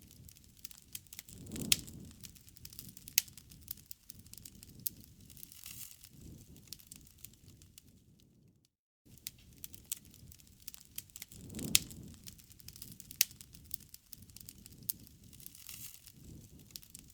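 Campfire crackling: sharp pops and snaps of burning wood over a low rustle of flames. The recording is a loop, cutting out for a moment about nine seconds in and then starting over.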